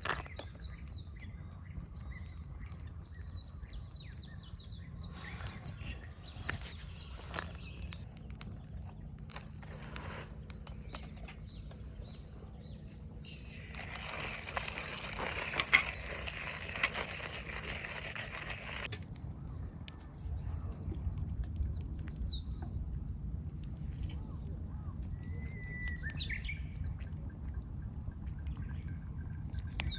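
Birds calling with short chirps over a steady low rumble, with a stretch of hissing noise lasting about five seconds midway.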